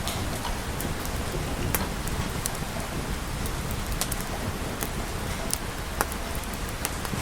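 Steady rain falling, with scattered sharp clicks and pops over it.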